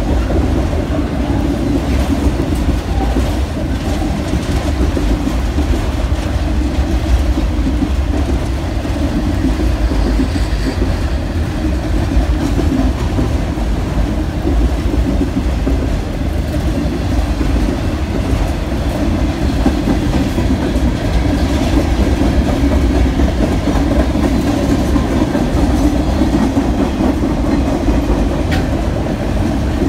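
Freight train of autorack cars passing at speed: the steady, loud rolling noise of steel wheels on the rails, with faint scattered clicks.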